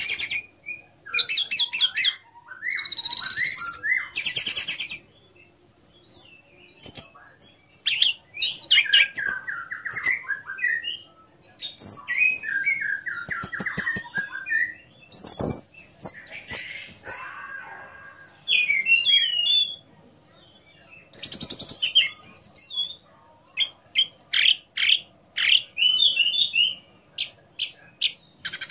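Orange-headed thrush in full, varied song: bursts of whistled and gliding phrases, trills and chirps with short pauses between them, and quick runs of short sharp notes near the end.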